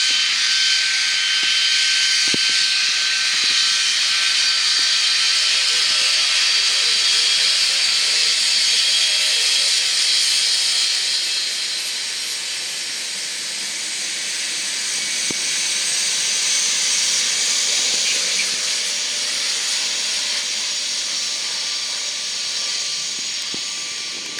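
Jet aircraft engines running close by: a loud, steady hiss with a thin high whine. It eases a little after about eleven seconds, swells again, then fades near the end.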